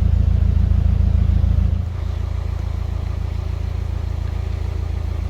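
Narrowboat diesel engine running with a steady low throb, throttled back about two seconds in and then running more quietly as the boat glides into a lock.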